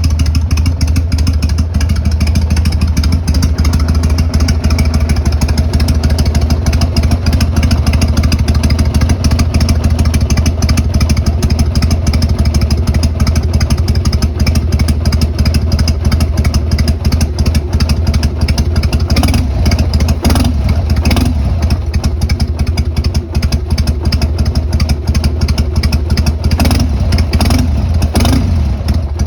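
2002 Harley-Davidson Sportster 883 Hugger's air-cooled V-twin idling steadily through Motor Stage brass-end mufflers, which keep a straight-pipe tone at a lower volume. A few short sharp bursts come about two-thirds of the way in and again near the end.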